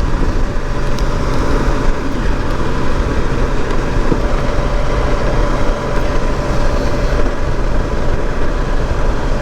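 Honda Gold Wing GL1800 trike's flat-six engine cruising at a steady speed, mixed with an even rush of wind and road noise.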